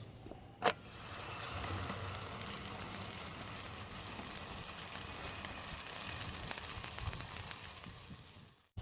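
Msemen flatbread sizzling on a hot pan over a charcoal kanoun: a short knock about a second in, then a steady sizzle that cuts off suddenly near the end.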